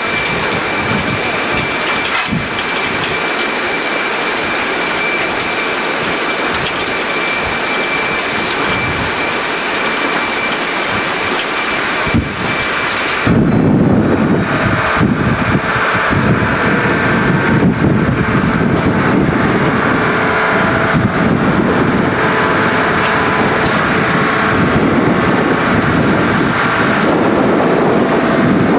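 Jet engines running with a steady high whine over a broad rush. About thirteen seconds in, the whine drops away abruptly and a louder, deeper rushing noise takes over.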